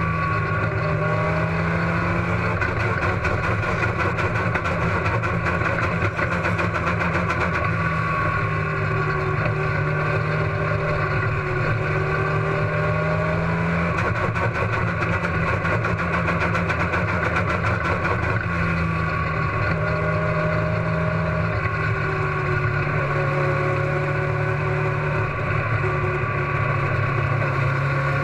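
Race car engine running steadily with a misfire, its pitch stepping slightly up and down every several seconds.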